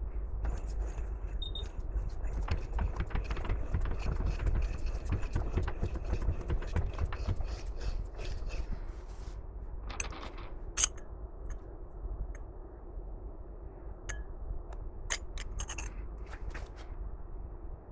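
Hand work on parts at a workbench: scraping with many small clicks for about the first nine seconds, then a handful of sharper knocks and taps.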